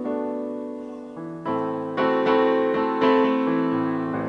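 Piano playing chords: a held chord fades away over the first second or so, then fresh chords are struck about every half second.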